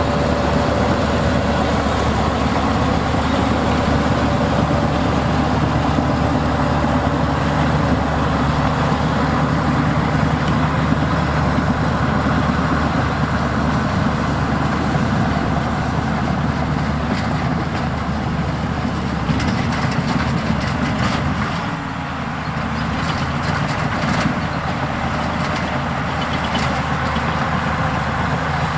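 Heavy diesel engines of earthmoving machinery running steadily, with a brief dip in level about 22 seconds in and a few light clicks in the second half.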